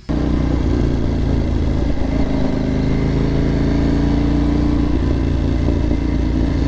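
Motorcycle engine running steadily on the move, picked up by the bike's own camera, its pitch rising slightly for a few seconds in the middle as it speeds up a little.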